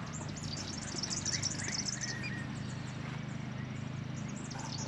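Small birds chirping, with quick high calls in clusters during the first two seconds and again near the end, over a steady low hum.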